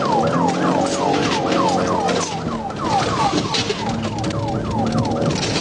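Police car siren on a fast yelp: short falling sweeps repeating about three times a second. Under it are the pursuing car's engine and road and wind noise.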